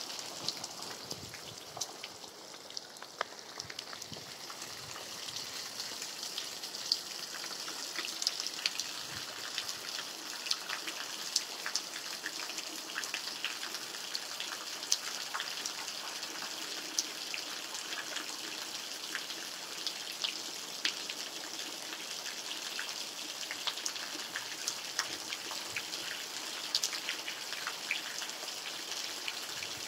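Steady rain falling, with individual drops landing as sharp ticks scattered throughout.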